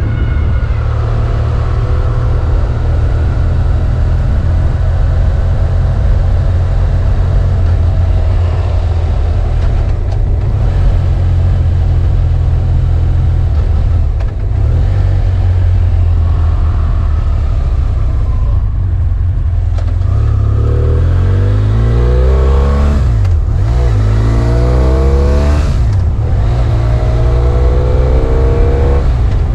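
BMW F800 ST's parallel-twin engine running while riding, a steady low drone for most of the stretch. From about two-thirds of the way in, the revs climb and drop several times.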